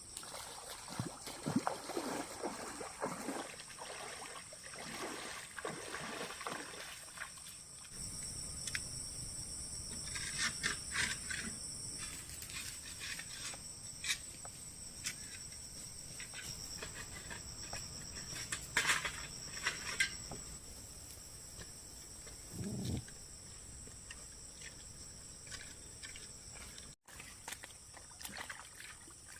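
Steady high-pitched insect chorus, with scattered short knocks and rustles from handwork.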